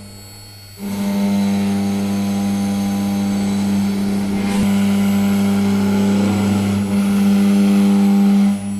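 Air-cooled CNC router spindle running at speed, a steady loud hum that starts about a second in and drops away near the end, with rougher noise rising in places.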